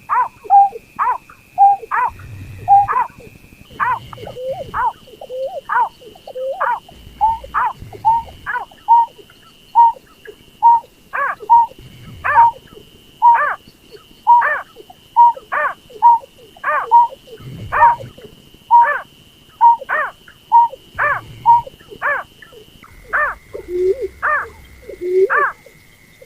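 Lure recording of a berkik (snipe) calling over and over: short, sharp calls, each a quick falling note, about two a second, with a steady thin high whine behind them.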